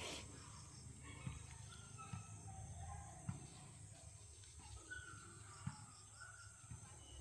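Faint open-field ambience: birds chirping in short whistled calls over a steady high insect drone, with a few soft knocks.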